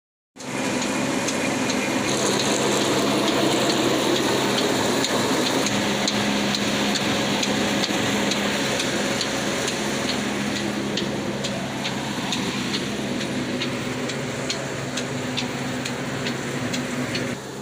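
Old 22-horsepower black diesel engine running steadily while driving a wheat-grinding mill, with a dense grinding clatter over the low engine beat. A sharp regular tick, about twice a second, comes through over the second half.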